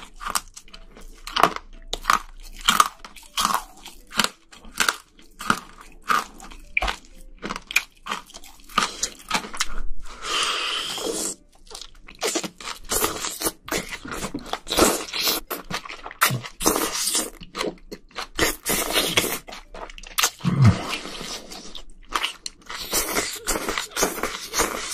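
Close-miked eating sounds: crisp crunching bites and chewing, many sharp crunches in quick succession.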